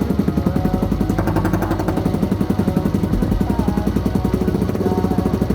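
Suzuki GN125 single-cylinder four-stroke motorcycle engine running at a steady idle through an aftermarket cafe racer exhaust, with a rapid, even pulse; the exhaust is still loud.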